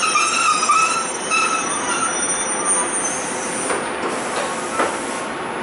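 A Belgian SNCB passenger train squealing as it brakes to a stop: several high steady squeal tones that die away about three seconds in, followed by a brief hiss and a few knocks.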